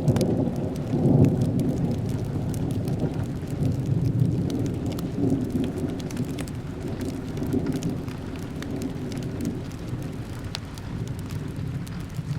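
A long low rumble of thunder, loudest in the first seconds and slowly fading, over steady rain, with scattered small crackles from a wood fire.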